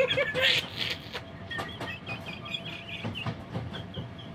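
Railway coach rolling along, its wheels clicking over the rail joints against a steady running rumble. A louder burst of noise comes in the first second, and a short run of faint high chirps comes in the middle.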